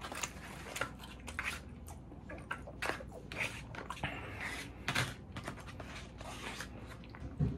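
Close-miked chewing and wet mouth sounds of someone eating, with irregular small clicks as a plastic fork works through food in a takeout clamshell container, and a low thump near the end.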